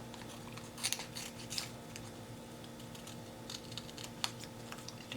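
Scissors snipping through paper in a few short cuts, the clearest about a second in and again around a second and a half, then fainter clicks, over a faint steady hum.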